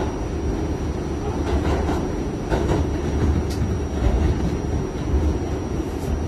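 Kawasaki R68A subway train running at speed, heard from on board: a steady low rumble with a thin high whine. A few sharp clicks come from the wheels passing over rail joints.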